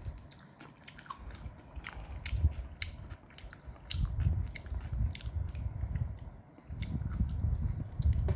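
Close-up chewing of chickpea curry and rice: soft, wet chews with many small sharp mouth clicks and lip smacks.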